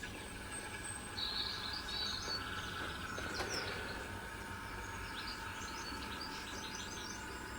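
Small birds chirping and twittering intermittently over a steady low background hum and hiss.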